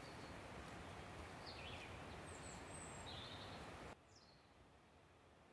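Faint woodland birdsong: a few short, high chirps and falling notes from small birds over a steady background hiss, which drops sharply in level about four seconds in.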